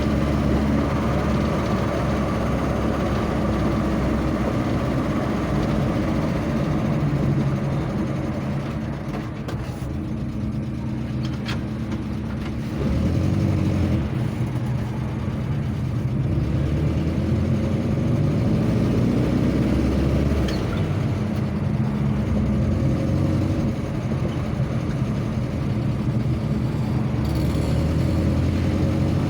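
Vehicle engine running on the road, heard from on board. Its pitch and level rise and fall as the vehicle slows and picks up speed, easing off about a third of the way in and pulling again soon after.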